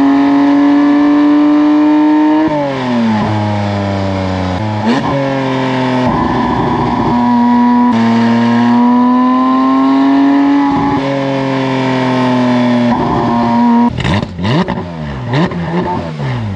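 Porsche 992 GT3 RS's naturally aspirated 4.0-litre flat-six, through a full titanium valved exhaust, pulling under load with revs climbing slowly. A little over two seconds in the revs drop in steps, then climb again in long pulls. Near the end they rise and fall sharply several times.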